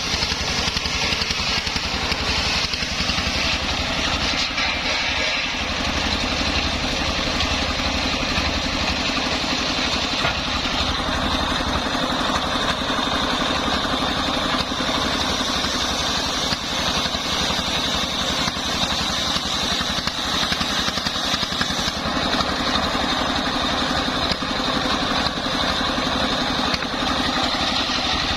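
Engine of a homemade circular-saw rig running steadily. A steady high whine comes in about a third of the way through and stays.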